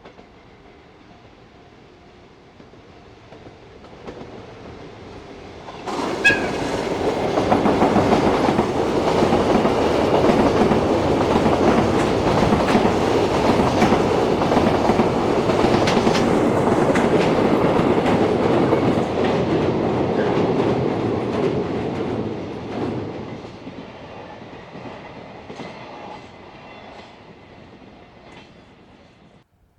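Electric freight train passing close by: it builds as it approaches, comes up suddenly loud about six seconds in, stays loud for about seventeen seconds as the locomotive and wagons go past, then fades away.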